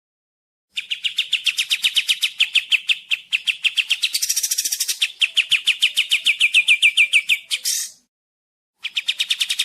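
Kapas tembak songbird singing: fast trills of sharp, downward-sweeping chirps, about ten a second, with a harsher, buzzier stretch in the middle. The trills stop dead twice, at the very start and near the end, leaving gaps of complete silence typical of an edited mastering recording.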